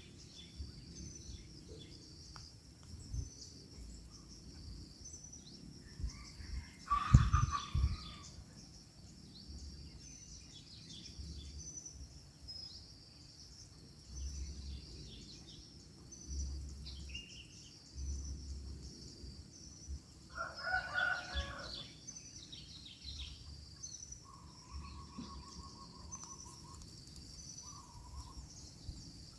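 Outdoor ambience: a steady high insect chirring with evenly repeating chirps throughout. A rooster crows once, about two-thirds of the way through. Near seven seconds in there is a single loud knock with a rustle, and other birds call faintly.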